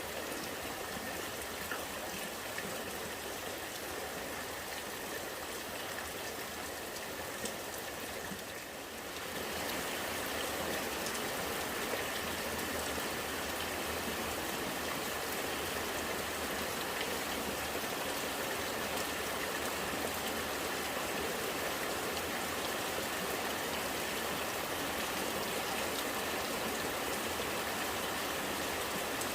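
Rain falling with rainwater running and gurgling, a steady, even hiss. It dips briefly about nine seconds in, then comes back slightly louder.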